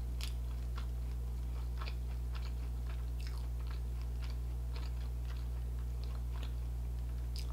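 Close-miked chewing and small wet mouth clicks of someone eating braised tofu and rice, with light taps of metal chopsticks against the bowl and plate, over a steady low hum.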